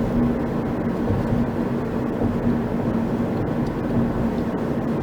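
Steady road and engine noise of a moving car heard from inside the cabin, with a constant low hum.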